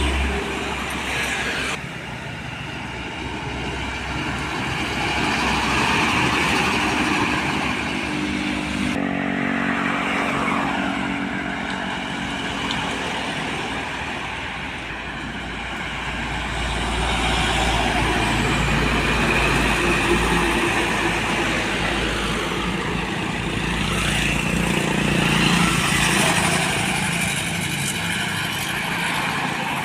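Road traffic with heavy trucks and other vehicles passing close by, their diesel engines and tyre noise swelling and fading as each one goes past.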